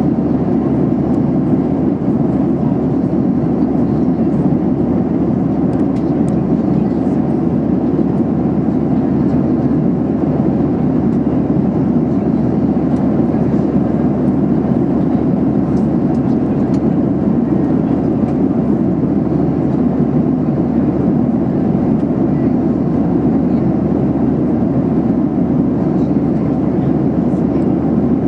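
Boeing 737-800 cabin noise in flight: a steady, loud, low rush of airflow and engine drone heard from a window seat, with no change throughout.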